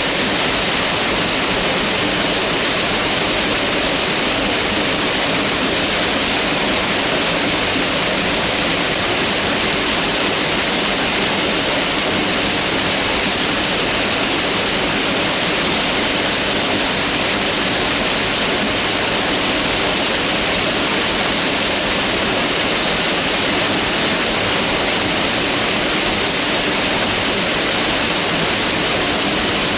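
Mountain river rushing steadily over rocks, a constant even hiss of water.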